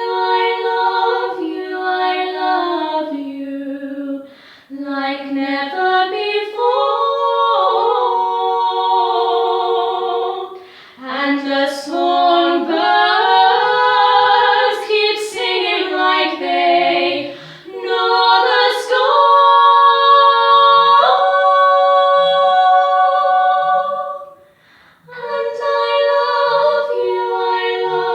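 Female voices singing a cappella in close harmony, several parts moving together with long held notes. The singing breaks off briefly about four seconds in and again near the end.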